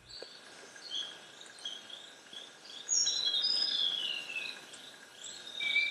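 Rainforest ambience: short whistled bird calls, busiest around three to four seconds in with one falling note, over a faint steady insect drone.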